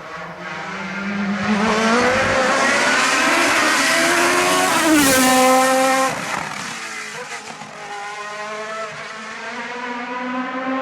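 Osella FA30 hillclimb prototype's Judd racing engine at high revs, climbing through the gears as it approaches. It is loudest as it passes about five seconds in, with a sharp drop in pitch. It then fades away, still rising in pitch through further upshifts.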